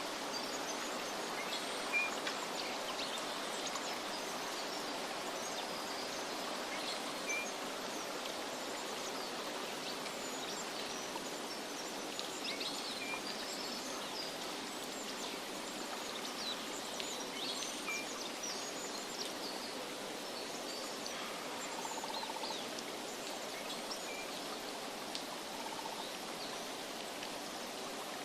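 Nature ambience: a steady rush of flowing water with birds chirping here and there over it.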